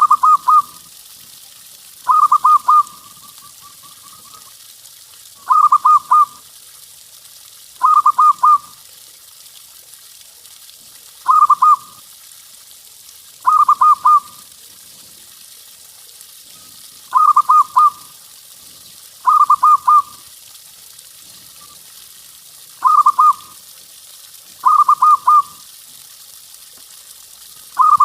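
Zebra dove (perkutut) cooing: about ten short phrases, each a quick run of several coos, repeated every two to three seconds over a faint hiss.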